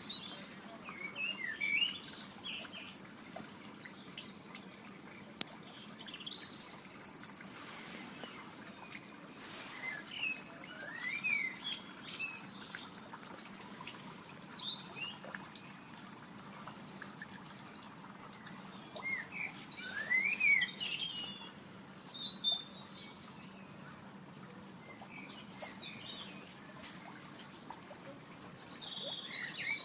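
Songbirds chirping and whistling in short, quick phrases, several at once and scattered throughout, over a faint steady low hum.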